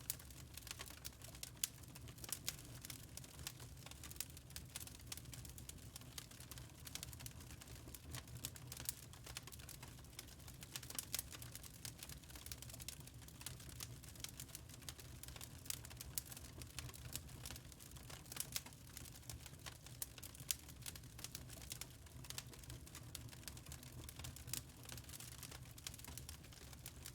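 Wood fire crackling: many small irregular pops and snaps over a low steady rumble of the flames.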